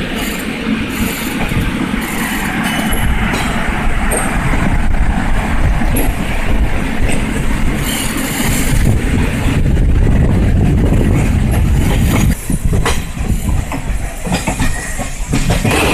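Passenger train running along the track, a steady rumble of wheels on rail, with sharp clicks over the rail joints from about ten seconds in.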